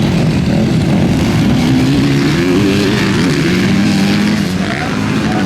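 Several motocross motorcycles racing, their engines revving up and falling back.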